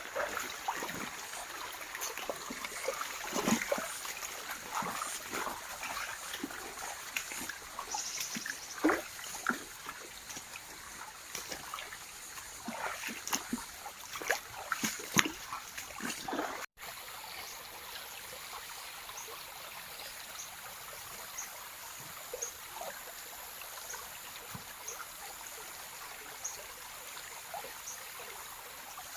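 Steady trickling of running water, like a small stream. Through the first half there are many irregular rustles and knocks; after an abrupt cut the water hiss goes on steadier, with faint high ticks about once a second.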